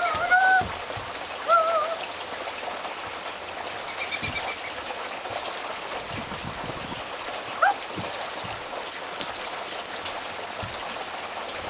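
Steady rain falling, an even hiss. Over it come a few short wavering whistle-like calls at the start and about a second and a half in, a brief high note about four seconds in, and a quick rising squeak near eight seconds.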